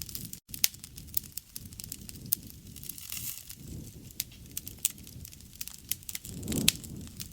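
Wood campfire crackling, with frequent sharp pops and snaps over a low rush of the flames that swells near the end. The sound cuts out for an instant just under half a second in.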